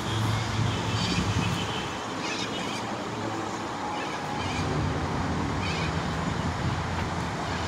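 Steady low drone of machinery from a high-rise construction site mixed with the even hiss of rain, with a few brief higher-pitched sounds scattered through it.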